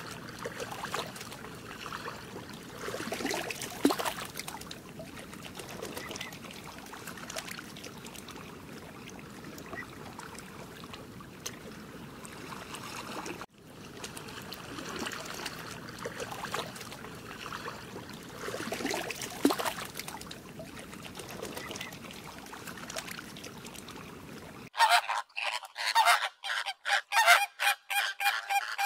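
A steady ambient hiss with faint trickling water. About 25 s in this gives way to a flock of flamingos honking: many short calls in quick succession, far louder than what went before.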